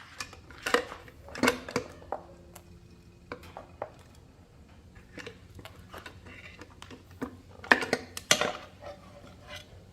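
Metal tools and motorbike parts clinking and knocking as they are handled, a run of sharp irregular clinks, some ringing briefly, with the loudest knocks about a second and a half in and near the end.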